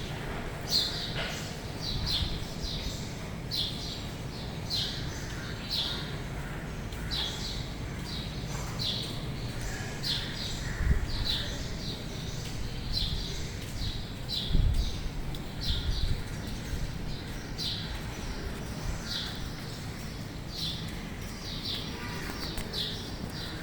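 Birds chirping: short, high, downward-slurred notes repeated one to two times a second, over a low rumble that swells briefly twice in the middle.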